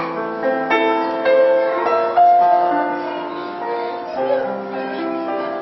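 Piano playing a melody over chords, new notes struck roughly every half second and left ringing.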